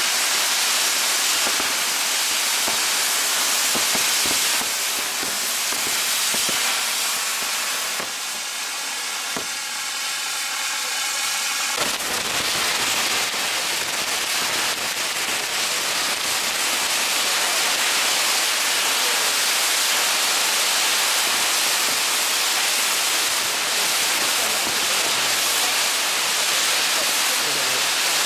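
Maltese ground fireworks (nar tal-art): gerbs driving spinning wheel-shaped set pieces, with a steady loud hiss and scattered crackles. About twelve seconds in, a new stage lights and the hiss suddenly fills out lower.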